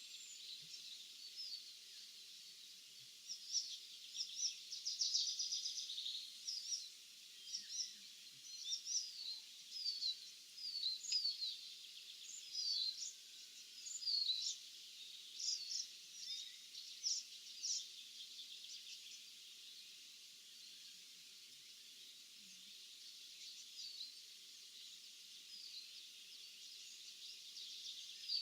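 Several songbirds singing and calling: many short chirps, whistles and a buzzy trill, busy through the first two-thirds and sparser near the end, over a faint steady high background of distant birdsong.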